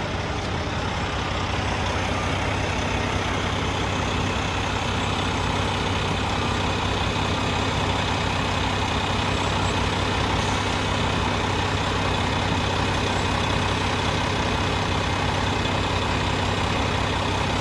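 Semi truck's Cummins diesel engine idling steadily while an aftertreatment cleaning chemical is pumped through its exhaust system.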